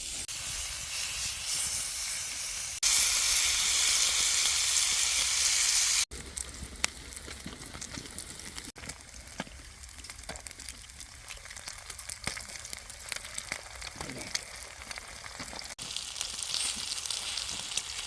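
Scrambled eggs sizzling in a hot pan, with the light clicks and scrapes of stirring. The sound comes in short cut segments: a loud, hissing sizzle for a few seconds near the start, then a quieter sizzle.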